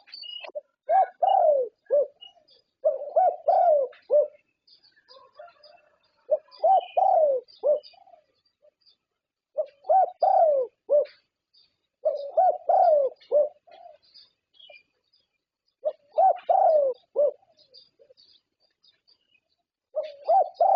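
Thai champion-class zebra dove (perkutut) cooing. It gives a phrase of quick, soft, bubbling notes about six times, with pauses of a second or two between phrases.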